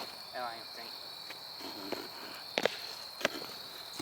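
Steady high-pitched insect trill running throughout, with a short wavering call near the start and two sharp clicks about two-thirds of a second apart in the second half.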